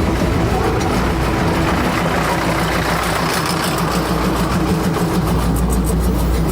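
A heavy engine running steadily with a low rumble, and a quick run of light clicking near the end.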